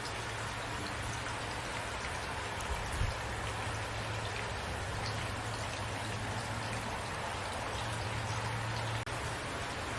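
Steady rain falling, with scattered individual drop ticks over an even hiss and a low steady hum underneath. The sound cuts out for an instant about nine seconds in.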